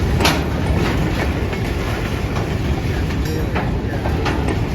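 Freight train of empty covered hopper cars rolling past, with a steady low rumble of wheels on rail and sharp clacks every second or two as the wheels cross rail joints.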